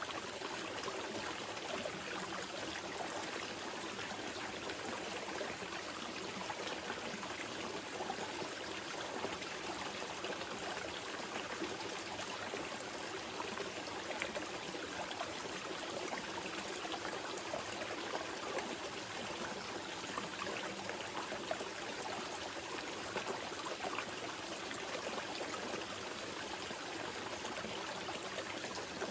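A small mountain river flowing steadily over stones, a constant rushing with light splashes and trickles.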